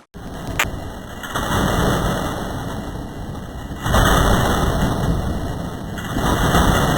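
A low, engine-like rumble that swells about four seconds in and again near the end.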